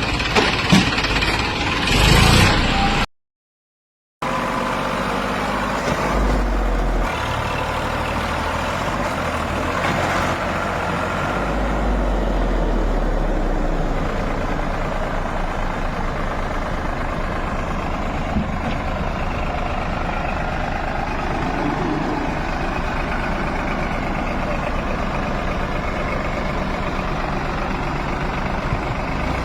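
Eicher truck's diesel engine running under load as the fully loaded truck tries and fails to climb. There are louder peaks in the first two seconds, a sudden cut to silence for about a second, and stronger low rumbling twice after that.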